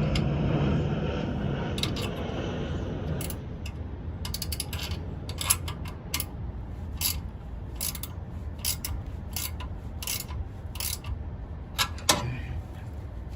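Ratchet wrench clicking in short runs and single strokes, tightening the mounting bracket bolts of a condenser fan motor. A steady low rumble fades out about three seconds in.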